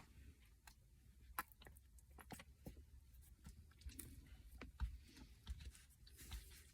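Near silence with faint, scattered clicks and small handling noises, as of hands working with food and packaging.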